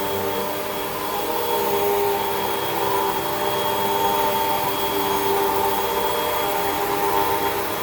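Hoover WindTunnel 2 Rewind upright vacuum cleaner running steadily while vacuuming carpet: a constant motor whine over the rush of air.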